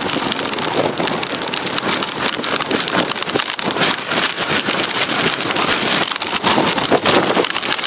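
Blizzard wind gusting at around 60 mph, driving snow against the microphone as a dense, unbroken stream of tiny ticks over a steady rush of wind.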